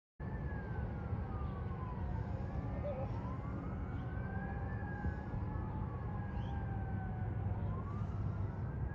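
Several sirens wailing at once, their pitches slowly rising and falling and overlapping, over a steady low vehicle rumble. The sound cuts in suddenly right at the start.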